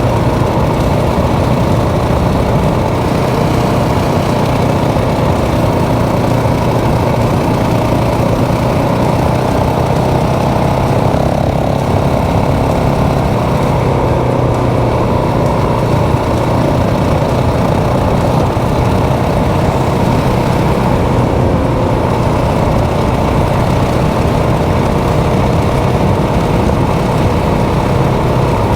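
Motorcycle engine running at a steady speed while riding, a constant drone mixed with wind and road noise.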